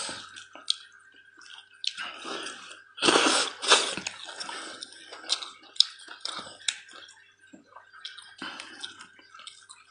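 Wet, close-up chewing and smacking of roasted lamb neck meat, loudest about three seconds in as a piece goes into the mouth, with scattered sharp clicks of a knife cutting the meat.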